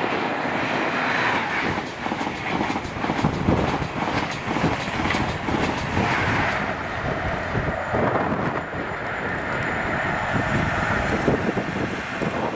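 InterCity 125 (HST) express train passing close at high speed: the class 43 diesel power car and the rush and clatter of the coaches' wheels on the rails.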